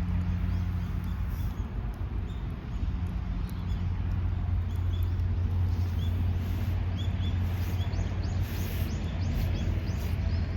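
Outdoor ambience: short, faint bird chirps scattered through, over a steady low rumble.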